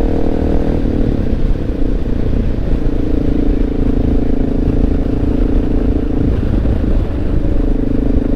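Honda XR650L's air-cooled single-cylinder four-stroke engine running steadily under way, over a low rumble. The engine note shifts about a second in and again around six to seven seconds in.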